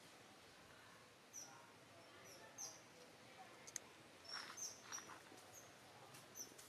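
Near silence, with faint short high bird chirps scattered through, about eight of them, and a few soft rustles a little past the middle.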